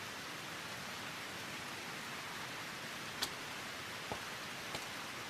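Steady, even hiss of rain-like noise, with a few faint ticks in the second half.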